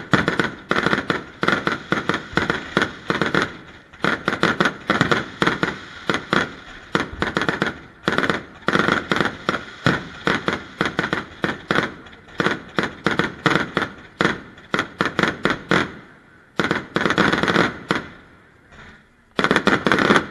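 Aerial fireworks bursting in rapid succession: sharp bangs and crackles several times a second. They thin out about three quarters of the way through, then a final dense volley comes near the end.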